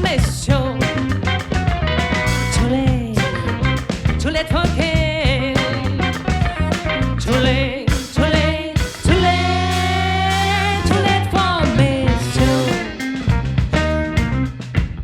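Live band playing a funk-soul song: drum kit, bass and electric guitar under a lead melody with vibrato, which holds one long note about nine seconds in.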